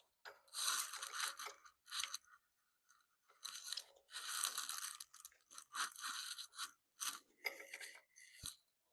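Hands forcing a stubborn mini-motorcycle part into place: a run of about eight irregular scraping and rubbing bursts with short gaps between them.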